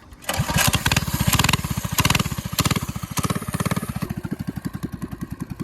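A Coleman mini bike's small single-cylinder engine starts up about a quarter second in and runs with quick, even firing pulses. It is louder for the first few seconds, then eases to a steadier, quieter idle.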